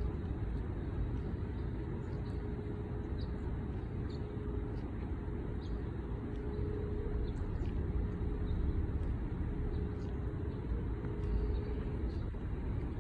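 Steady low rumble of city traffic, with faint short high ticks or chirps scattered every second or so.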